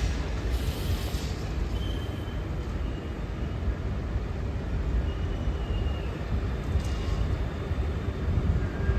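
Steady low rumble of a train at a station platform, with a few faint, short high-pitched squeals over it.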